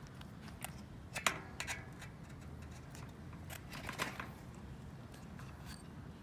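Scattered light clicks and short scrapes of small hard objects being handled, with the loudest burst about a second in and another around four seconds in.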